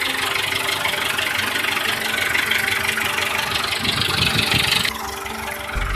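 Massey Ferguson 265 tractor's three-cylinder diesel engine running steadily. A hissing layer over the engine cuts off abruptly about five seconds in, and a deeper hum comes in just before the end.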